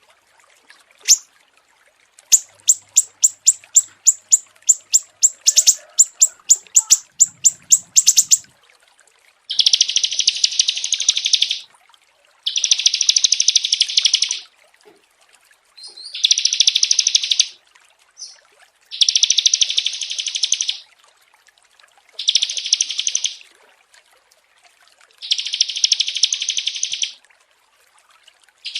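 Small songbirds calling: a quick run of sharp high chirps, about three a second, then from about ten seconds in six buzzy trills of roughly two seconds each, with short pauses between.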